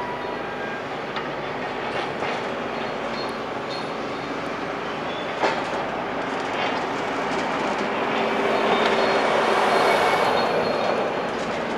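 Heavy demolition machinery breaking up a building: a steady grinding rumble with metallic squeals and clatter. There is one sharp knock about halfway through, and a louder swell of crunching rubble toward the end.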